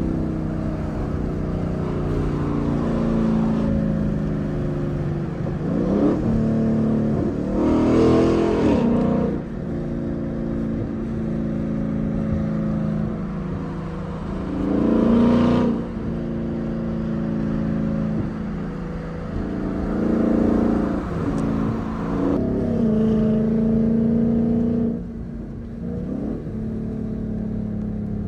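Modified 600-horsepower 2015 Ford Mustang GT's 5.0-litre Coyote V8 driving on the highway, its note repeatedly climbing under acceleration and dropping back. It is loudest in a few revving bursts, about a third of the way in and again near the middle.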